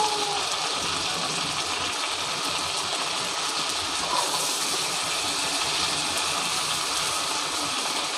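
Giant freshwater prawns shallow-frying in hot mustard oil in a pan, a steady sizzle.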